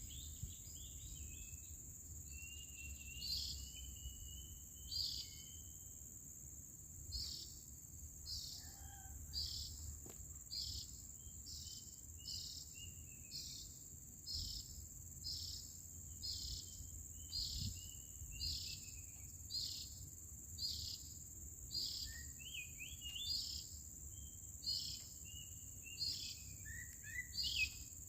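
A bird calling in short, high notes repeated about once or twice a second, some trailing into a falling whistle, over a steady high-pitched insect drone.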